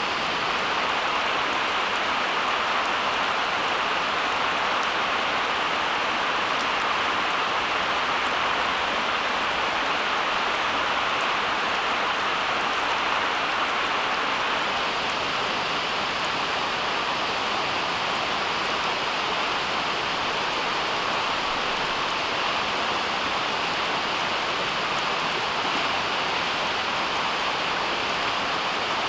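Steady, even hiss of falling or running water, unbroken and without distinct drops or splashes.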